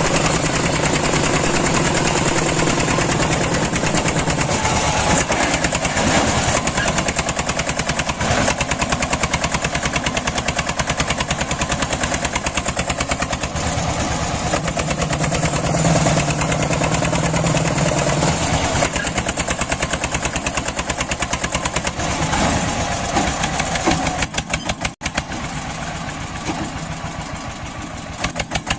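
Small engine of a homemade mini tractor running with a fast, even firing beat; it dips briefly about 25 seconds in and runs quieter after that.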